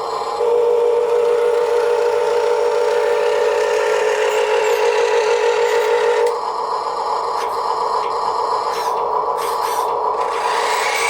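Electric motors and metal gearboxes of a Huina 1582 RC dump truck whining steadily. About six seconds in the tone shifts higher and thinner.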